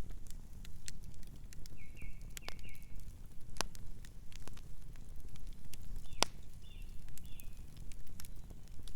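Campfire crackling, with irregular sharp pops and snaps of burning wood over a low steady rumble of the flames. Twice, about two and seven seconds in, a short run of faint high chirps.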